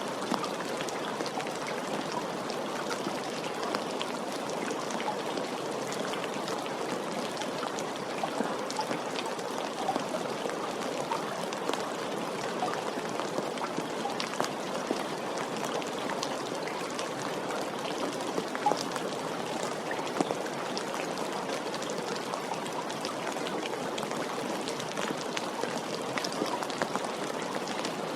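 Steady rain, with many separate drops ticking across a continuous patter.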